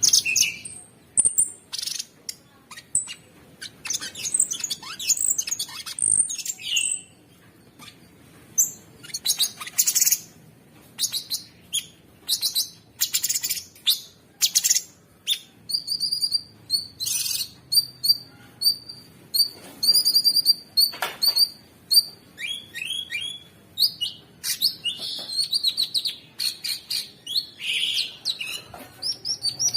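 Cucak sungkok song: a busy, unbroken string of harsh chirps, sharp whistles and rapid trills of quickly repeated high notes, the rough-filled, non-stop singing used as a masteran to teach other songbirds.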